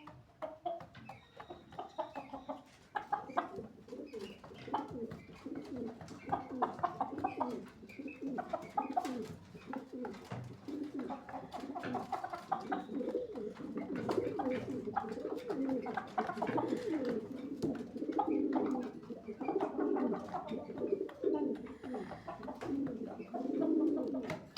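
Several birds making low, overlapping calls without a break, with scattered small clicks.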